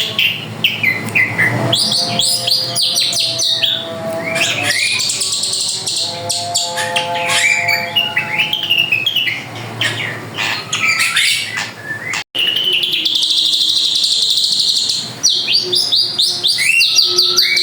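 Drongo (srigunting) singing continuously: a varied run of chirps, whistled notes and rapid rising and falling phrases, broken by a brief cut about 12 seconds in.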